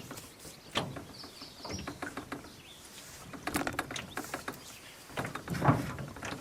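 Solo canoe paddling in an aluminium Grumman canoe: irregular knocks and water splashes from the paddle and hull, with a brief high bird chirp about a second in.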